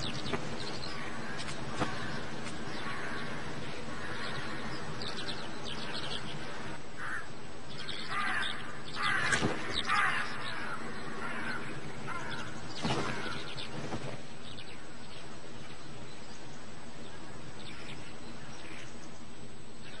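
Wild birds calling over a steady background hum, with a cluster of louder, sharper sounds about eight to ten seconds in and another near thirteen seconds.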